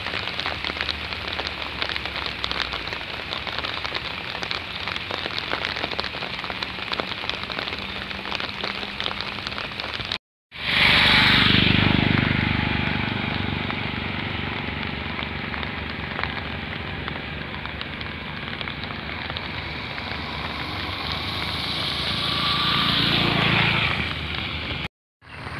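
Rain falling steadily on floodwater and leaves, a dense patter. About ten seconds in, the sound cuts to a steadier rushing noise with a low hum. It is loudest just after the cut, fades, then swells again before another cut near the end.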